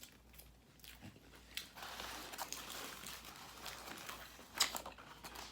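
Close-up chewing and crunching of food, with a few sharp clicks and a soft rustling noise through the middle.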